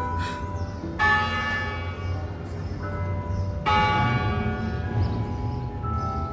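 Church bells playing a slow tune: single notes struck a second or more apart, each ringing on and dying away, the strongest about a second in and near four seconds. A steady low rumble lies underneath.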